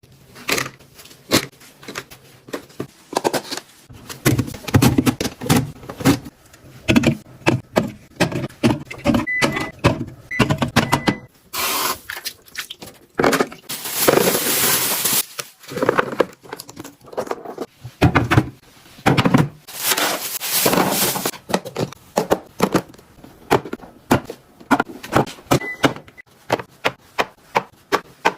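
Plastic storage containers and food packaging being handled and packed into a fridge: many quick clicks, knocks and taps of plastic, with longer stretches of crinkling packaging about twelve and twenty seconds in and a few brief squeaks.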